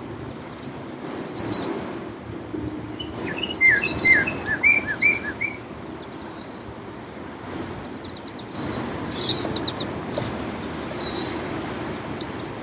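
Songbirds chirping: a short high two-part chirp repeats every second or two, and a quick run of lower, sweeping notes comes about four seconds in. Underneath is a steady wash of calm lake waves.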